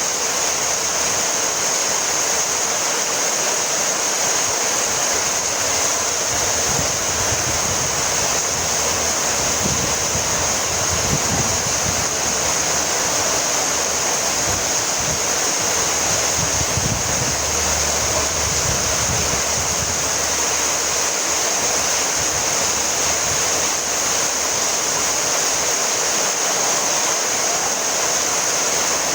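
Heavy rain falling steadily, an even hiss of many drops with no let-up. A low rumble comes and goes about halfway through.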